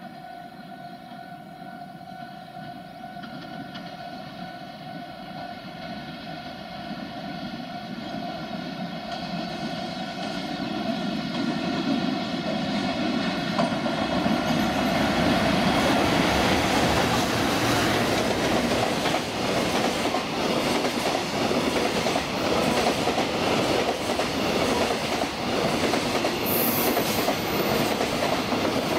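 JR Freight EF210 electric locomotive hauling a container freight train, growing louder as it approaches, then passing close by with the wagons' wheels clattering rhythmically over rail joints. Under the approach a steady ringing tone of several notes fades out about halfway, and a brief high wheel squeal comes near the end.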